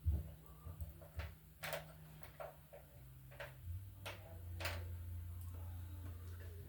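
Scattered light clicks and knocks of NM electrical cable being handled and worked into place, over a low steady hum that grows louder about halfway through.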